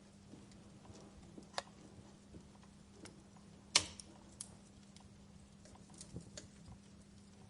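Faint crackling of a wood fire, with irregular sharp pops and snaps, the loudest a little under four seconds in.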